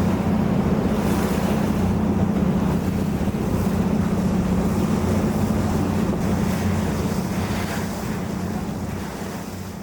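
Engine of a yakatabune (Japanese roofed pleasure boat) running steadily with a low hum, over rushing water and wind on the microphone. The sound fades out over the last few seconds.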